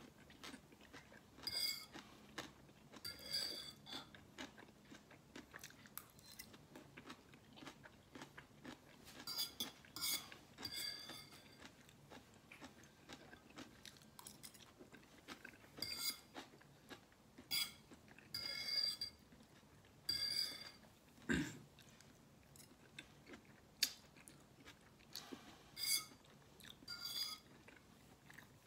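Close-miked eating: a person chewing and biting forkfuls of noodles with vegetables, in irregular bursts of wet, crunchy mouth sounds a second or two apart. One sharp knock a little over twenty seconds in.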